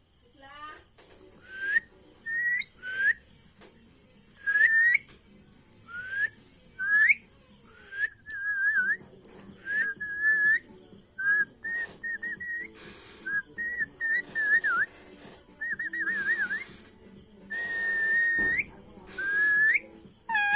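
Pet parrot giving a series of short whistles, most rising sharply at the end, with some warbled whistles midway and one longer held whistle near the end.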